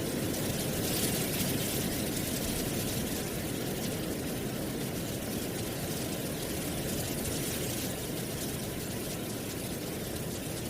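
Wind blowing steadily through trees with dry leaves rustling, a steady hiss that swells slightly about a second in.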